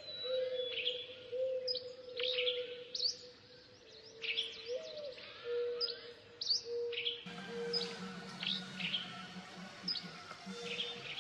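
Small birds chirping, with many short, sharp calls repeated throughout over a low steady tone. About seven seconds in, a lower hum joins the background.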